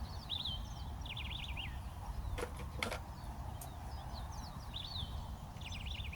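A songbird singing the same short phrase of quick, high, descending notes twice, once at the start and again near the end. Two sharp clicks about half a second apart come in the middle, over a steady low rumble.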